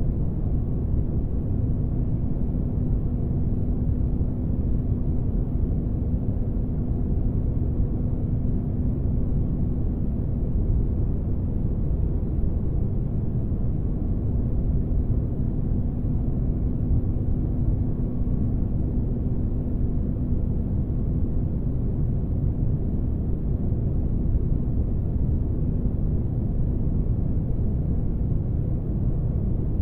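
Spaceship ambience for sleep: a steady, deep rumbling noise with a faint low hum running through it, unchanging throughout.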